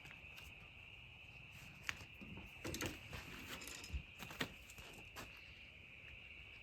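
A faint, steady, high-pitched chorus of calling animals, with a few short knocks and rustles in the middle.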